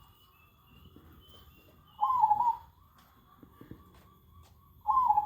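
Zebra dove (perkutut) cooing its song: two short, clear phrases of a few wavering notes, about two seconds in and again near the end.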